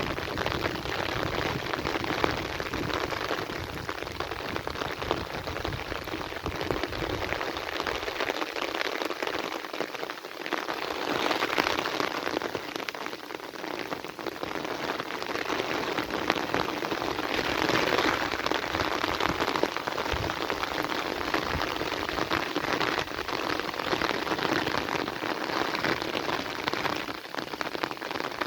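Heavy rain falling steadily, a dense patter of drops that swells a little louder twice.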